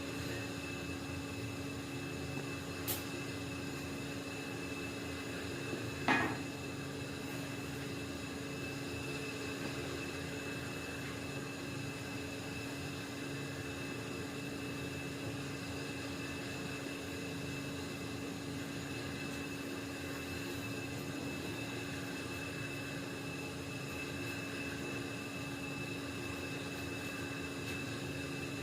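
Steady machine hum with several fixed tones, broken by a sharp click about three seconds in and a louder knock about six seconds in.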